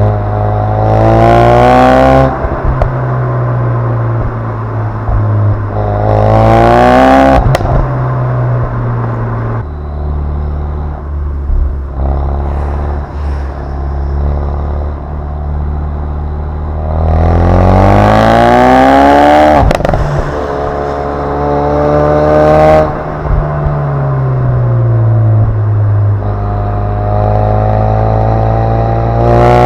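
2016 Ford Focus RS's turbocharged 2.3-litre four-cylinder exhaust revving hard three times, each rising pitch cut off abruptly, with a sharp crack as the revs drop twice. In between it settles to a steadier, lower drone, and the pitch falls slowly about two-thirds of the way through.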